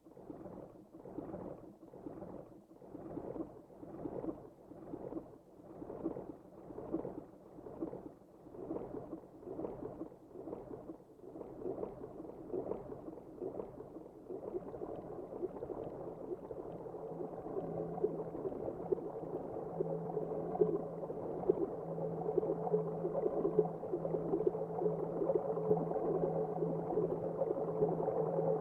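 Ambient electronic music from analog synthesizers: soft pulsing swells a little over once a second that gradually blur into a dense, slowly growing wash, with a low steady drone coming in about halfway through.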